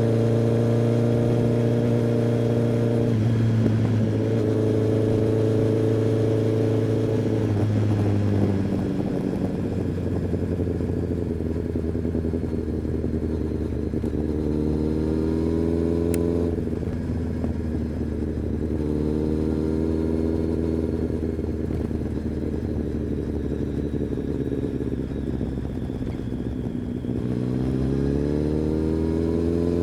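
Kawasaki ZX-10R's inline-four engine and exhaust running under way, the pitch holding steady for stretches and dropping several times as the throttle is eased or gears change. Near the end the pitch climbs as the bike accelerates.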